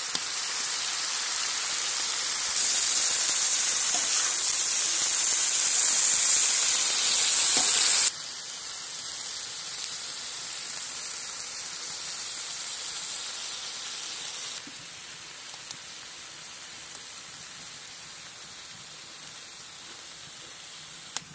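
Pork, chicken, carrot and onion sizzling in hot oil in a saj pan over a wood fire: a steady hiss. It is loudest for the first eight seconds, then drops in two steps, and a few faint pops come near the end.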